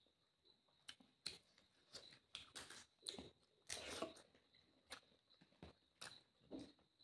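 Faint mouth sounds of someone eating rice and chicken curry by hand: soft, uneven chewing with scattered short clicks and a few longer wet smacks.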